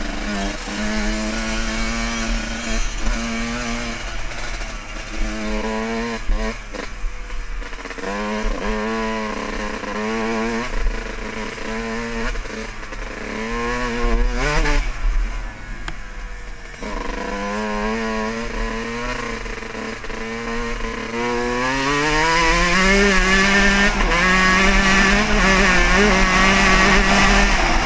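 Dirt bike engine running under way, its revs dipping and rising several times, then climbing to a higher, louder steady pitch about three-quarters of the way through.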